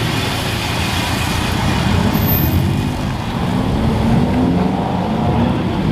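Car engines running in a parking lot full of vehicles, a steady, continuous engine noise with pitch wavering through it.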